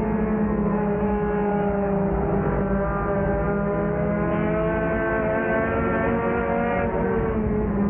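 Race car engine running at speed, heard from inside the car. Its pitch sinks and rises slowly, dipping briefly near the end.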